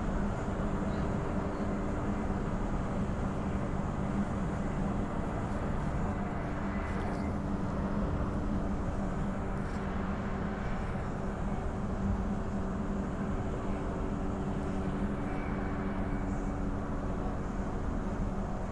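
Bombardier B-series electric multiple unit running at speed: a steady rumble of wheels on rail with a constant hum from the traction equipment.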